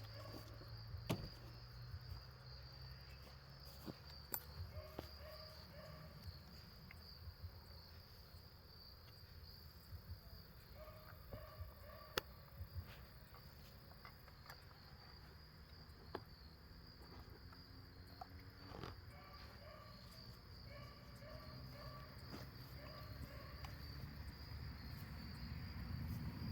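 Faint, steady chirring of insects, with scattered sharp clicks and knocks now and then.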